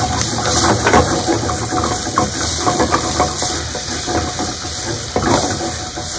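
Onions and chillies with ground spices sizzling in oil in a stainless steel pan, stirred by a silicone spatula that scrapes repeatedly over the pan's base.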